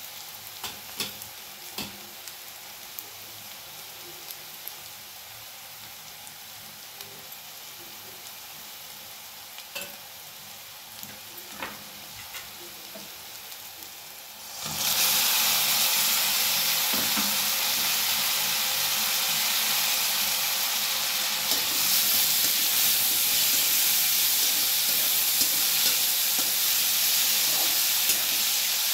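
Sliced onions and spice powders frying in oil in a non-stick kadhai: a steady, gentle sizzle with light clicks and scrapes of the spatula. About halfway through, the sizzle jumps suddenly to a much louder, fuller hiss as chopped tomatoes go into the hot oil.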